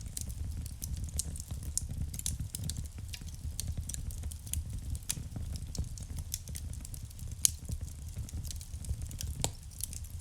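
Wood fire burning in a fireplace: frequent sharp crackles and pops over a steady low rumble of the flames, with one louder pop about seven seconds in.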